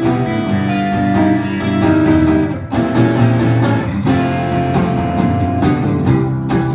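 Instrumental passage of a live band song: guitars playing over bass and drums, with no singing.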